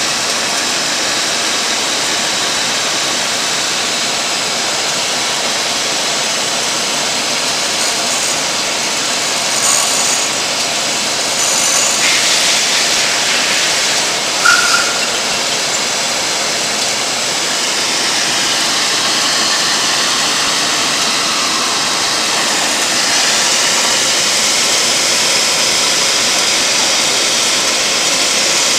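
Intermac Diamut grinding machine running steadily while reprofiling a diamond wheel, a continuous grinding hiss. About halfway through there is a brief louder, higher squeak.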